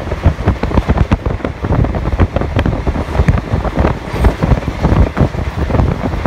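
Passenger train running at speed: a steady low rumble and clatter of the carriage on the track, with wind buffeting the microphone.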